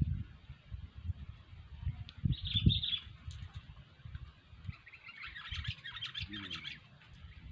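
Sooty-headed bulbul calling: a short call a couple of seconds in, then a longer chattering run of notes about five seconds in. Irregular low knocks and rumbling run underneath.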